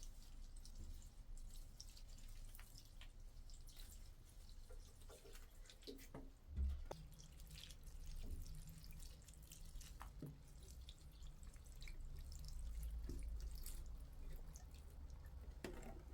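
Faint, irregular dripping, small drops falling at uneven intervals over a low hum, with one soft low thump about six and a half seconds in.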